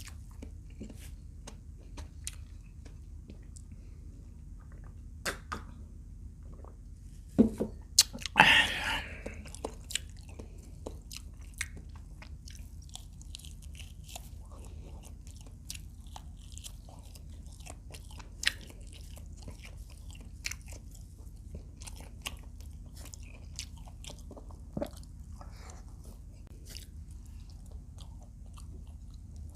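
Close-up chewing and crunching of fried adobo quail, a run of small wet clicks with a louder burst of crunching about eight seconds in.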